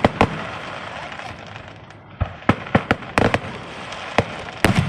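Fireworks going off in a string of sharp bangs: two at the start, a gap of about two seconds, then quick clusters of cracks to the end.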